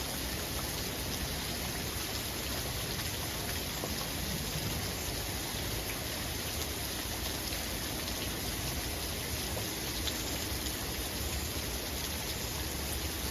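Heavy rain falling steadily, an even hiss of rain on surfaces with no let-up.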